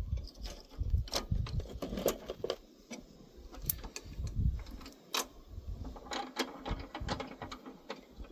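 Irregular metal clicks and clunks from tightening a thread-sealed socket onto a bore pump body with a Stillson wrench.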